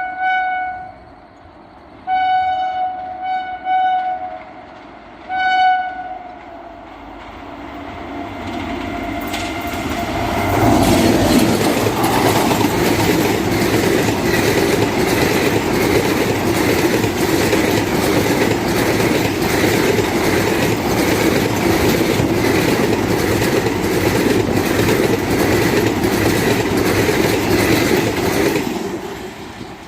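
Indian Railways express train sounding several blasts on its locomotive horn, then approaching and passing at full speed with a loud steady rumble and a rhythmic clickety-clack of wheels over rail joints, lasting close to twenty seconds before it drops away near the end.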